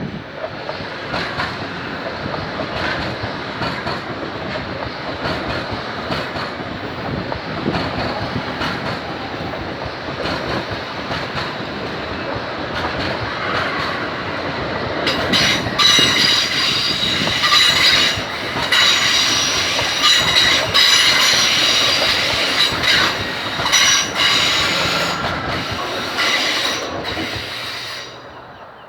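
A train passing on the rails, its wheels clicking over the rail joints; from about halfway the wheels squeal in a high, shifting screech, and the sound drops away near the end.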